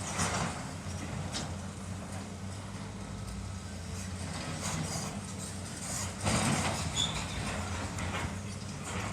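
Heavy demolition machinery's diesel engine running steadily under load, with crunching and clattering debris just after the start and again at about six seconds in.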